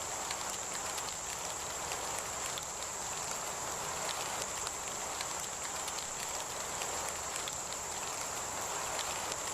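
Heavy rain falling steadily, with many small drop impacts ticking, and a steady high-pitched whine over it.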